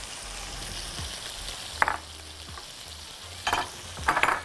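Orzo, diced vegetables and mushrooms sizzling in oil in a pot, with a silicone spatula scraping through them in three short strokes: one about two seconds in and two near the end.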